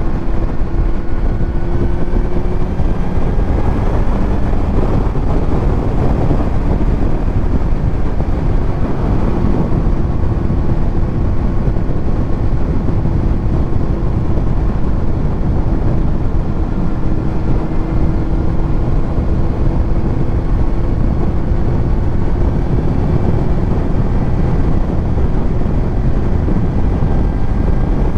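Kawasaki Z900's inline-four engine through a titanium Arrow exhaust, running at a fairly steady cruising speed with its pitch drifting only slightly. Wind rushes over the microphone.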